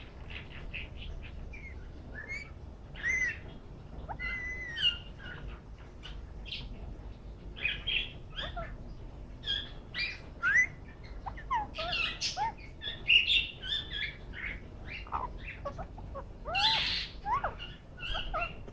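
Green ringneck parakeet making many short chirps, squeaks and small gliding whistles, scattered and irregular, with louder bursts of chatter later on.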